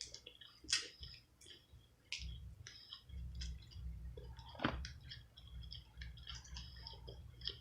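Close-up mouth sounds of a person eating seafood: wet chewing and lip smacking, with a low rumble underneath from about two seconds in.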